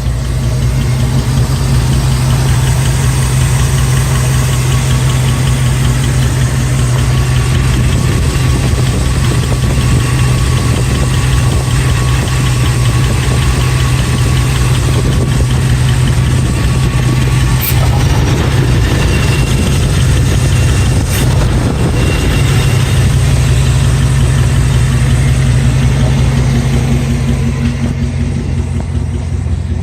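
Dodge Dakota R/T's 5.9-litre V8 idling steadily, with two sharp clicks in the second half.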